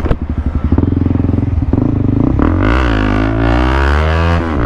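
Honda CB300R's single-cylinder engine through a full-system Akrapovic exhaust with no catalytic converter, loud with a deep bass note: it idles with quick, even firing pulses, then revs rise steadily from about halfway in, with a brief dip near the end.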